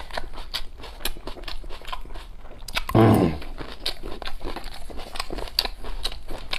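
Close-up chewing of a mouthful of braised pig's head meat, with many small mouth clicks. About three seconds in there is a short hummed "mm".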